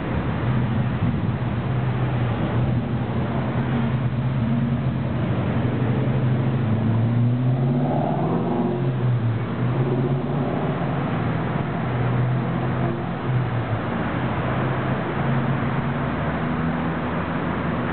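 A motor vehicle's engine running, its low hum shifting up and down in pitch, over a steady hiss.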